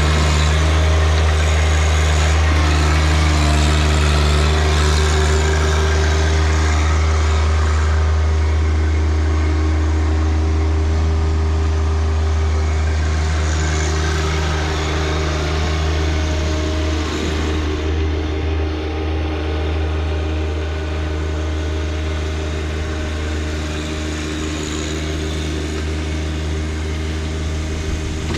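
John Deere 1025R compact tractor's three-cylinder diesel engine running steadily, with small shifts in its tone.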